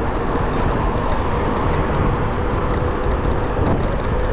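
Steady rush of wind on the microphone and road noise while riding an electric bicycle at speed, with a faint steady tone under it.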